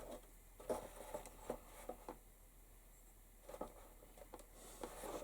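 Faint, irregular clicks and taps of a leather pouch and metal belt clips being handled on a workbench, about eight light knocks spread through a quiet room.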